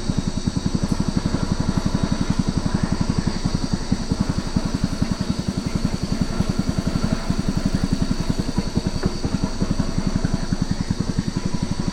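A small boat's outboard motor running steadily at an even speed, its rapid firing pulses unbroken throughout.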